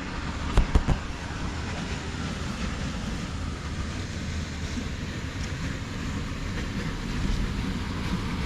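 Steady outdoor background noise: a low rumble with wind buffeting the microphone. A few sharp knocks just over half a second in.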